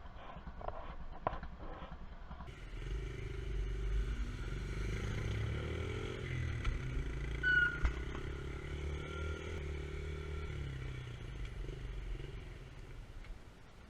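Pit bike engine running at low speed, its pitch rising and falling gently as it is ridden, with a few knocks in the first couple of seconds.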